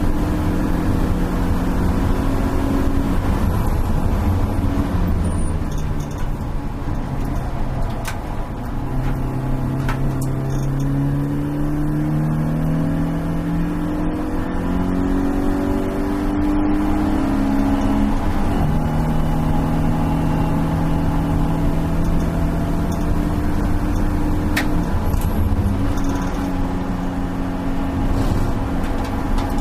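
BMW E36 318is race car's stock four-cylinder engine heard from inside the stripped cabin, over wind and road noise. The engine note falls, then climbs steadily for about ten seconds under acceleration, drops abruptly a little past halfway as the driver shifts up, and then holds fairly steady.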